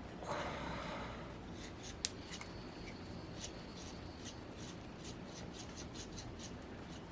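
Quiet handling of small model-engine parts on a workbench: a brief rustle, one sharp click about two seconds in, then light scattered ticks.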